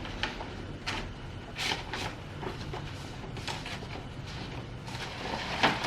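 Paper crackling and rustling in short, irregular bursts as a greeting card is handled and opened from its envelope.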